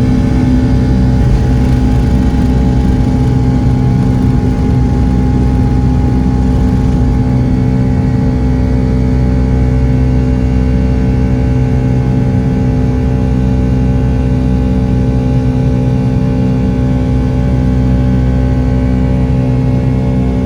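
Boeing 757-200 jet engines running steadily during takeoff and initial climb-out: a loud, even drone over a low rumble, with several steady whining tones held throughout.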